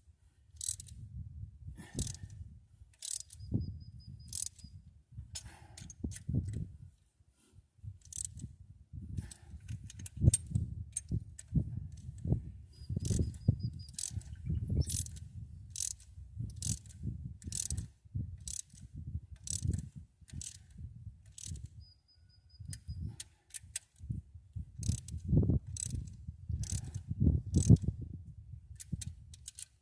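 Hand socket ratchet clicking in short, irregular runs as bolts are turned, with low rumbling knocks underneath.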